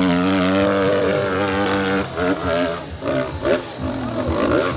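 Dirt bike engine running at high revs for a couple of seconds, then revving up and down in short, uneven bursts.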